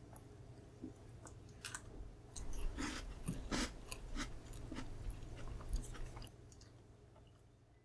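Close-up chewing of a bite of Mont Blanc cake: irregular crisp little crunches and mouth clicks, trailing off about six seconds in.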